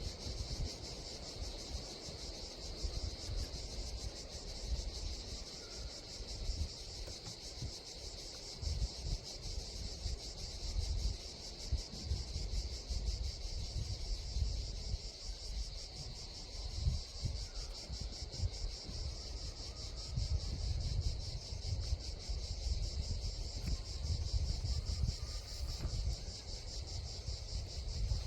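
A steady, dense high-pitched chorus of insects chirring in summer woodland, with a fine rapid pulse. Uneven low rumbling of wind buffeting the microphone comes and goes over it.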